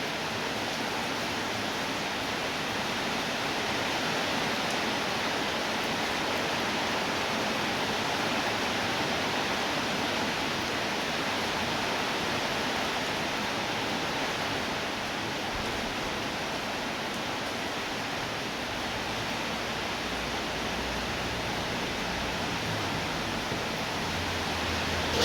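Steady rainfall, an even hiss with no separate drops standing out. A faint low rumble joins near the end.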